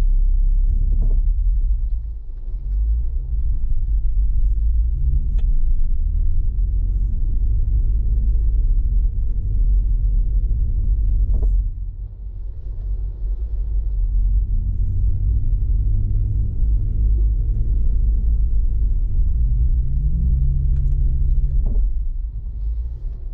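Jeep engine and drivetrain rumbling as it crawls off-road through snow, heard as a heavy low rumble with the engine revving up briefly twice, plus a few light knocks.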